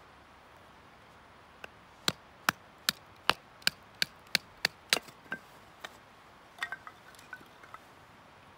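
A run of about nine sharp, hard strikes in quick, even succession, about two and a half a second, then a few lighter clinks with a short metallic ring near the end, typical of hammering or chopping at a campsite.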